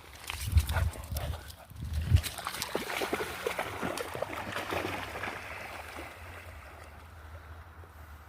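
Close-up sounds of an old dog: a run of irregular clicks and soft low thumps, busiest in the first five seconds, then tailing off.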